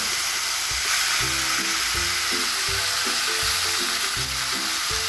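Pork pieces sizzling steadily in hot oil and browned brown sugar in a caldero, an even frying hiss. Background music plays under it.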